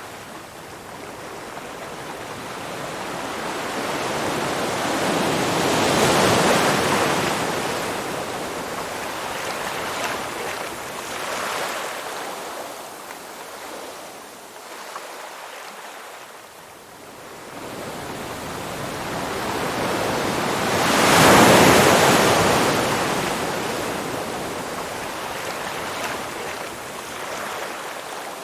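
Ocean waves breaking and washing up a shore. Two big surges rise and fall away, one about six seconds in and a louder one about twenty-one seconds in.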